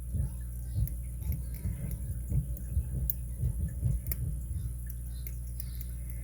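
Handling noise from picking a Master Lock 930/950 padlock: an irregular run of dull, low thumps over the first four and a half seconds, with a few faint clicks, over a steady low hum.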